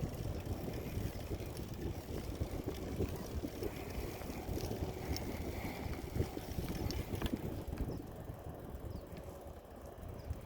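Wind rushing over the microphone with low rumble while riding a bicycle, with a few small clicks and rattles; it eases off somewhat about eight seconds in.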